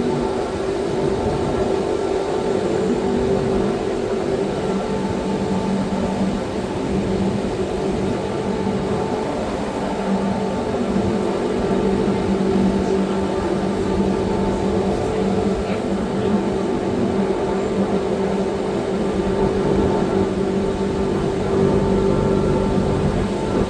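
Electric rack-railway train of the Wengernalpbahn running steadily, a continuous rumble with a steady motor hum.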